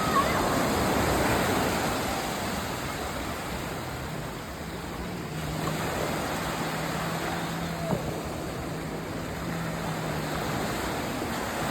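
Steady rush of surf and wind on a beach, with a faint low steady hum through the middle.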